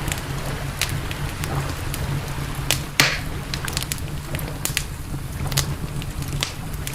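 Campfire crackling, with sharp pops throughout and the loudest about three seconds in, over a steady low rumble.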